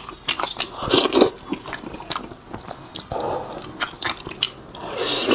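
Close-miked chewing of pig head meat, full of short wet clicks and smacks, while pieces of the head are pulled apart by hand.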